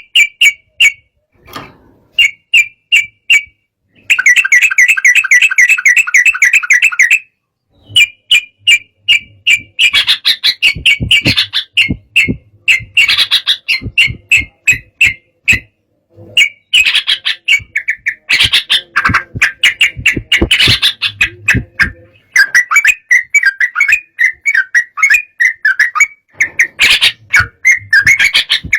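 Sooty-headed bulbul singing agitatedly: fast runs of short, repeated chirping notes in loud bursts, with a longer unbroken chattering stretch and brief pauses between phrases.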